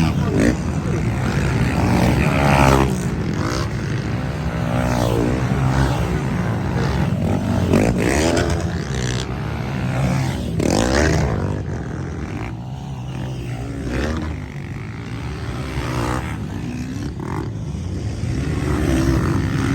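Several motocross bikes racing on the track, their engines revving up and dropping off again and again as riders accelerate, shift and pass, over a constant rumble.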